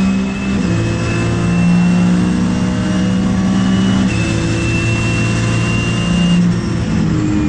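Porsche 997 GT3's flat-six engine running at fairly steady revs, its pitch shifting in small steps about half a second in and again about four seconds in, with a thin high whine over it.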